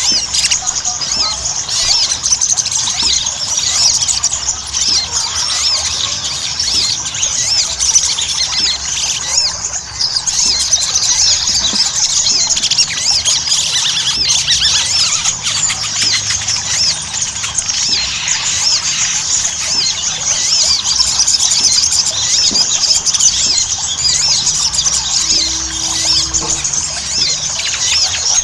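Little spiderhunter (sogon) singing: a dense, unbroken stream of rapid, high-pitched chirps and squeaky notes.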